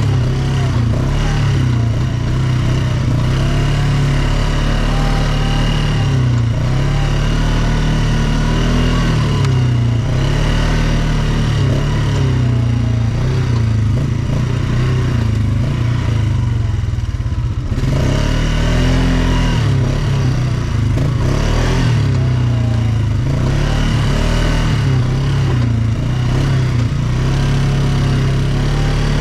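ATV engine running while riding, its revs rising and falling every second or two.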